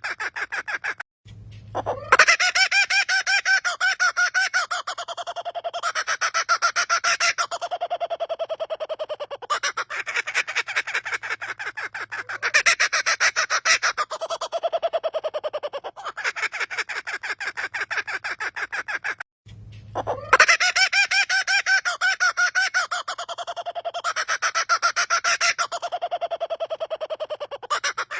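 A bird giving a laughing call: fast runs of repeated harsh notes, about ten a second, in phrases several seconds long. After a short break about 19 s in, the same sequence begins again, as in a looped recording.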